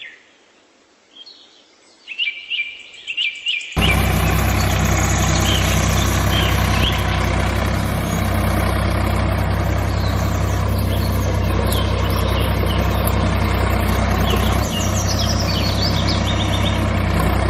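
Birds chirping, then about four seconds in a tractor engine starts running steadily under the birdsong and cuts off suddenly at the end.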